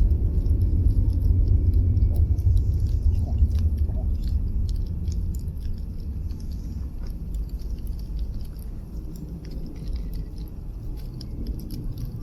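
Wood fire crackling in a fire pit: scattered sharp pops and snaps over a steady low rumble that eases off a little about five seconds in.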